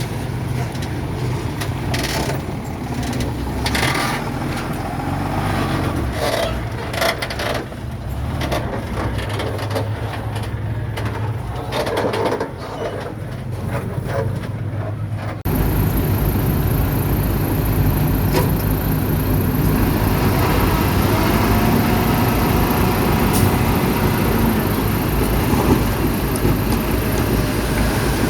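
Diesel engines of heavy earthmoving machinery running under load, with scattered knocks and scrapes. About halfway through the sound changes abruptly to a louder, denser engine noise.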